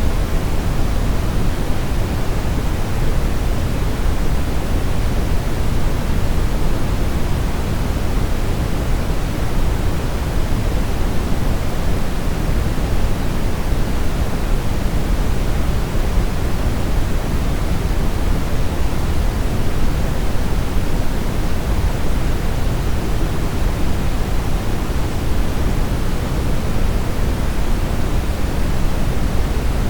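Steady brown noise: an even, deep hiss weighted heavily toward the low end, with no change in level or character.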